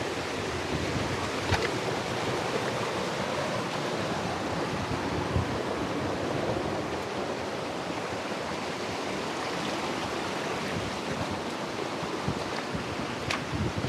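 Steady rush of flowing water from a mountain stream or waterfall, with a couple of faint brief clicks.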